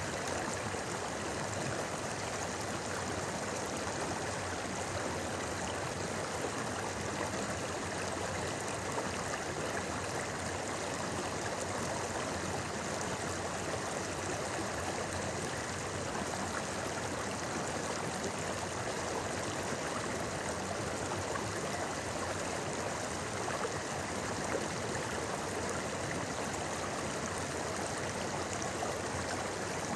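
Clear mountain stream flowing and babbling over rocks, a steady, even rushing of water.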